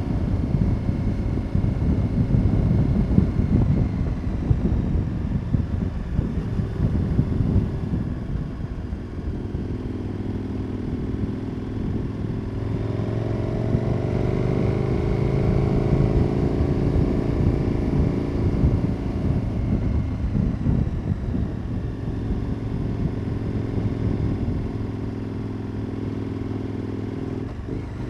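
KTM 1290 Super Adventure S's V-twin engine running through an aftermarket Wings exhaust while riding. A rough, uneven rumble for the first several seconds settles into a steadier note that climbs in pitch about halfway through as the bike accelerates, then falls back.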